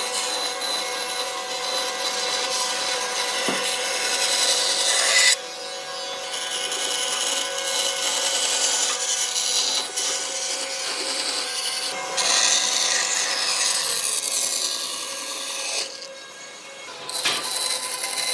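Hand tool working wood: continuous scraping and rubbing strokes, such as rasping, sanding or sawing by hand. The sound is in several stretches that change abruptly where the footage is cut.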